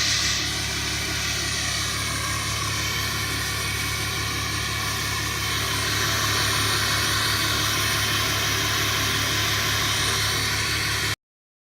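Ram 2500's Cummins turbo-diesel inline-six running with a steady engine and exhaust drone, a little louder about six seconds in, then cutting off abruptly near the end.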